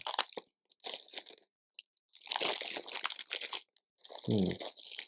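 Hands rummaging through loose LEGO pieces and their plastic bags while searching for a missing part: plastic rattling and crinkling in three bursts.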